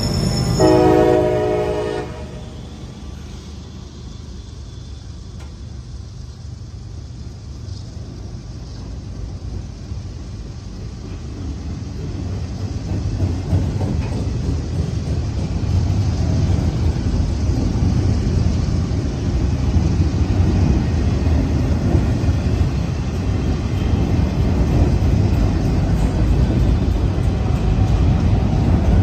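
A diesel locomotive horn sounding briefly and cutting off about two seconds in, then the low rumble and clatter of autorack freight cars rolling past on the rails, growing louder from about ten seconds in.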